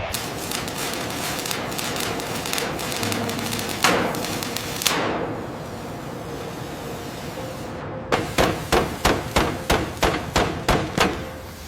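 Busy clattering and scraping of metal work on seized engine parts, with two heavy knocks about four and five seconds in. Near the end comes a run of about a dozen even hammer strikes, roughly three a second.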